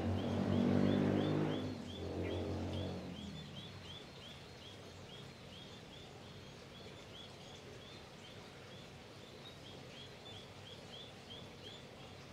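A bird repeats a short, high chirp over and over, about three a second. A low hum with several steady tones fades away in the first three seconds.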